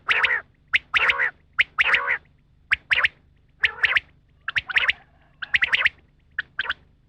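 Rain quail calling: short, sharp notes in quick pairs and clusters, repeated about once a second.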